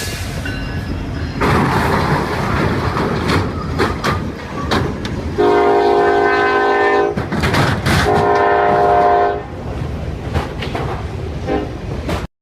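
A train running with rumble and clatter, sounding its horn in two long blasts: the first about five seconds in, the second about eight seconds in, each lasting roughly a second and a half.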